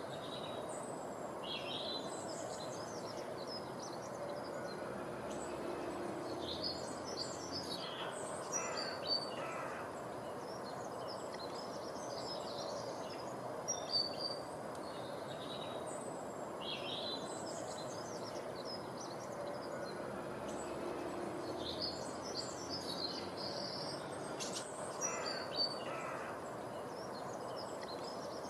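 Birds chirping and giving short harsh calls over a steady background hiss; the same run of calls comes round again about every 14 seconds.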